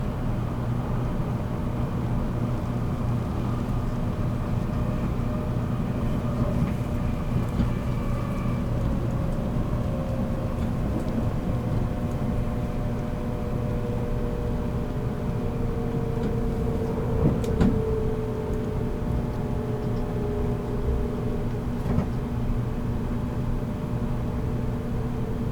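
Running noise inside a JR Kyushu 783 series electric limited express motor car: a steady rumble with a low hum and a motor whine that slowly falls in pitch as the train slows on the approach to its next stop. Sharp knocks come about two-thirds of the way through and again a few seconds later.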